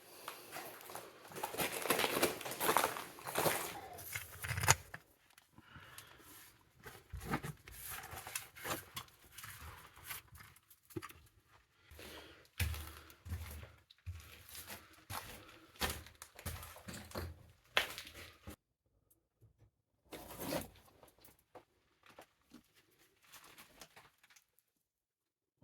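Footsteps crunching and scuffing over loose rock and debris, busiest in the first five seconds, then thinning to scattered scrapes, clicks and a few dull thumps with quiet gaps between.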